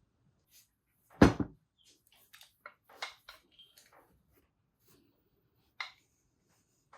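Hard parts or tools being handled on a workbench: one loud knock about a second in, then a quick run of lighter metallic clicks and taps, and one more clink near the end.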